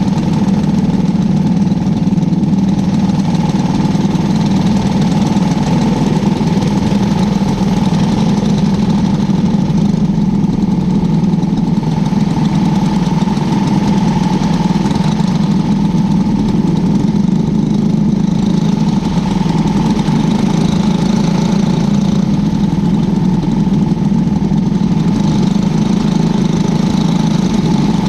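Cadet winged sprint car's engine heard onboard, running at a steady, unchanging pitch.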